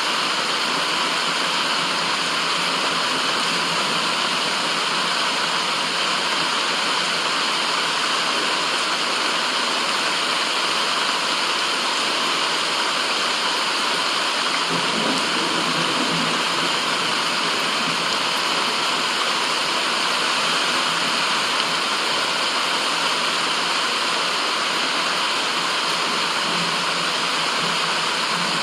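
Steady white noise: an even, unbroken rushing hiss with no rhythm or pitch, and a brief faint low rumble about halfway through.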